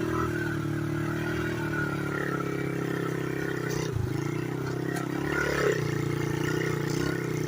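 Pit bike engine running at a steady speed on the move, with a brief dip in the engine note and a knock about four to five seconds in.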